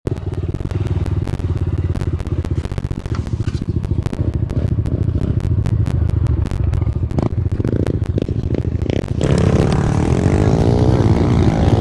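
Small 110cc four-stroke single-cylinder pit bike engine running while being ridden, with many sharp rattles and knocks throughout. About nine seconds in it gets louder, its pitch rising and falling with the throttle.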